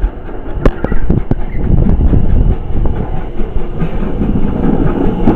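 Heritage steam railway train running on the line: a loud, steady rumble of wheels on the rails with scattered clicks.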